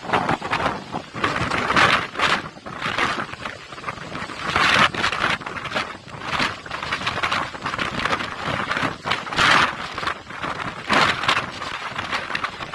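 Strong storm wind blowing in gusts, swelling and dropping every second or two, with wind buffeting the microphone.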